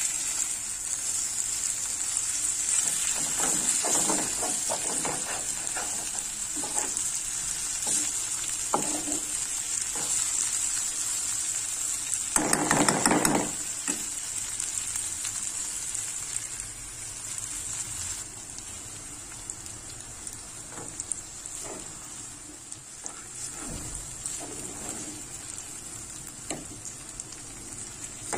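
Okra and masala sizzling in a metal pan while a metal spoon stirs and scrapes through it, with one louder, longer scrape about halfway through. The sizzle grows quieter in the second half, with the pan on low heat.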